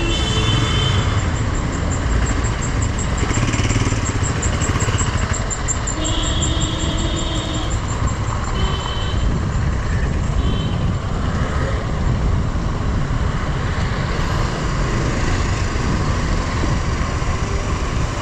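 Motorcycle riding along a road: steady engine and road noise with wind on the microphone, and a few brief high tones partway through.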